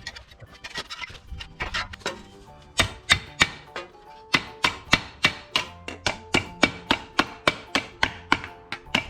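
Hammer tapping a steel sheet to shape a patch panel. A few softer, uneven knocks are followed by sharp, evenly spaced blows at about four a second, each ringing briefly.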